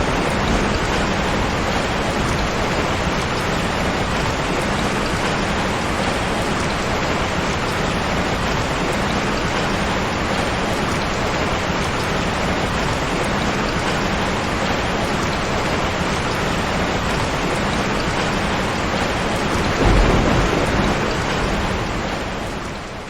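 Steady heavy rain, with a low roll of thunder about twenty seconds in, fading out near the end.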